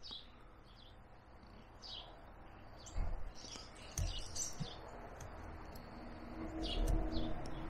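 Small birds chirping in short, high calls several times. There are two soft low thumps about three and four seconds in, over a faint steady background.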